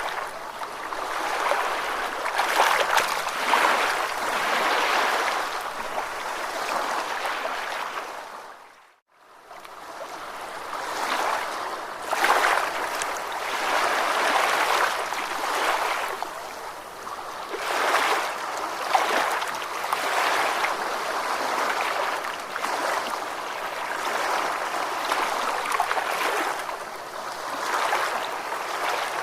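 Ocean waves washing on a shore in repeated surges. The sound fades out briefly to near silence about nine seconds in, then builds again.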